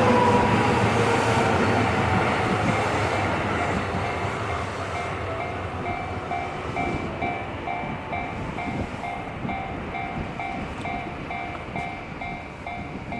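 A train passing over a level crossing and moving away, its rumble fading, with a whine that drops in pitch as it goes by. Through it the Japanese level-crossing warning bell rings steadily, about two strokes a second, and it stands out more as the train noise dies away.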